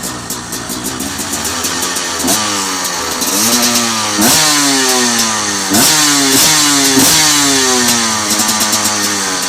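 2013 Husaberg TE250 two-stroke enduro engine on its stock exhaust, idling for about two seconds. Then it is revved in several quick throttle blips, each climbing sharply and falling back toward idle.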